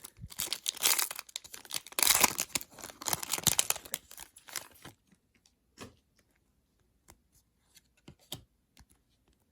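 Trading-card pack wrapper being torn and crinkled for about five seconds, then a few light ticks of card handling.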